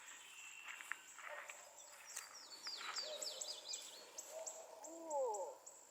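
Wild birds calling: a run of quick, high, down-slurred chirps, then a lower hooting call that holds and falls away near the end.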